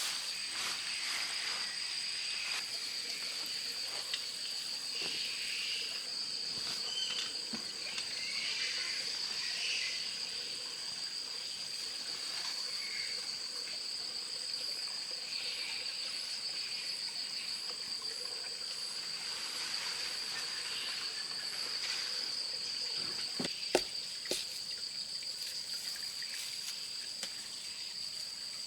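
Forest insects keeping up a steady, high-pitched, slightly pulsing buzz. A fainter, higher chirp repeats about twice a second in the middle, and a couple of sharp clicks come near the end.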